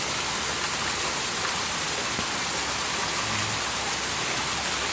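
Heavy rain falling hard on the ground and puddles, a steady even hiss.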